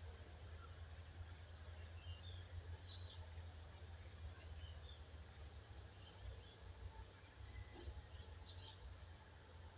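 Faint distant birds chirping: short scattered calls every second or so, over a low steady rumble.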